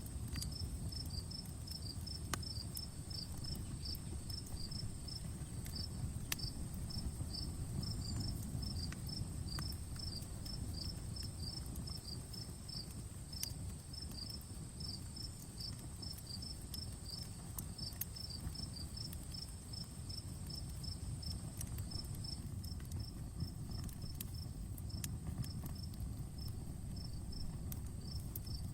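Outdoor campfire burning with a low steady rumble and scattered sharp crackles and pops. Crickets chirp in a steady high run throughout, over a thin high insect trill that drops out briefly late on.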